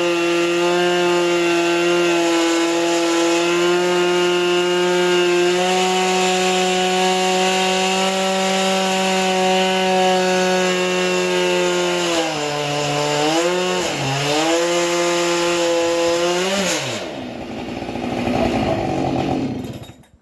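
Two-stroke chainsaw on a Logosol chainsaw mill, running at steady high revs under load as it rips a log lengthwise. About twelve seconds in, the revs dip and recover twice. Near the end the engine note drops away and only a softer rushing noise remains.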